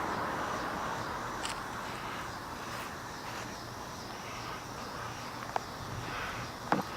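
A passing vehicle's noise fading away over the first couple of seconds, leaving a steady outdoor background with a few short clicks near the end.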